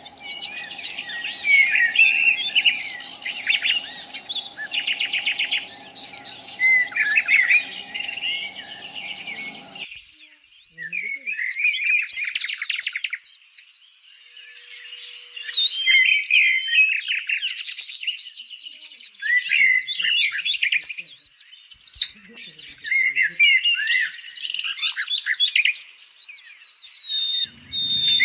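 Birds chirping in quick, overlapping calls and short twitters, with brief gaps between bouts. A low steady hum underneath stops abruptly about a third of the way through.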